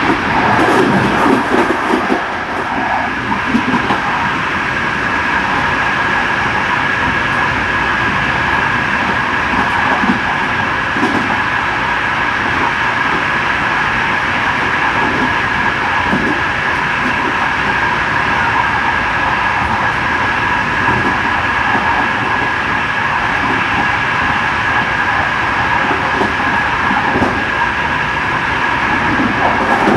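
Train running at speed, heard on board: a steady rumble with a continuous high whine, and now and then the knock of wheels passing over rail joints.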